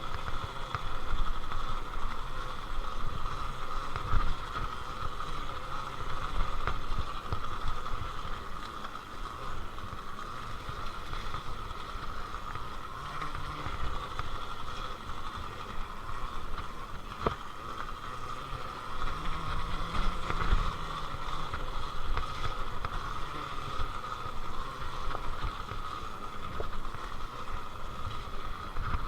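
Happy Run electric dirt bike being ridden on a dirt trail: the electric motor gives a steady high whine, under an uneven low rumble of wind on the microphone and the tyres and suspension working over rough ground, with a few sharp knocks.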